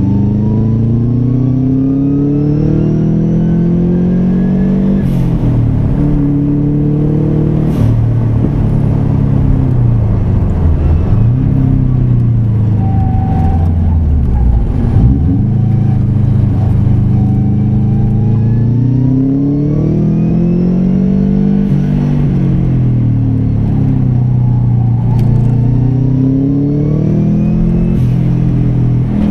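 Car engine heard from inside the cabin while lapping a circuit under hard acceleration. Its pitch climbs steadily, drops sharply at each gear change, and falls away when slowing for corners, again and again.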